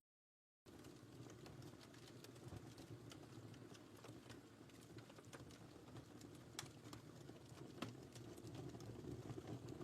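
A wood fire crackling quietly, with irregular small pops and snaps over a low steady rumble of burning. The sound drops out completely for about half a second at the start.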